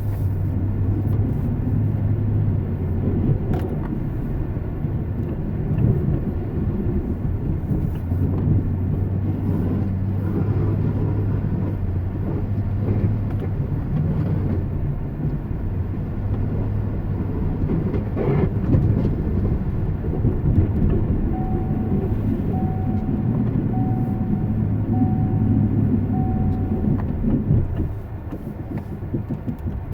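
A car's steady low running hum and road rumble, heard from inside the vehicle. A run of short, even electronic beeps sounds about one a second for several seconds past the middle, and the overall noise drops near the end.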